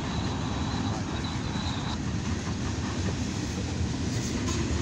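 Freight cars of a CSX mixed freight train rolling past: a steady rumble of steel wheels on rail. A thin high tone stops about two seconds in.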